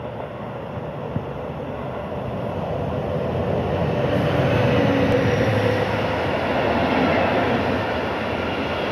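Freight train running past: a rumble that grows louder as the locomotive approaches and goes by about four to five seconds in, then the steady rolling of a long string of tank wagons on the rails.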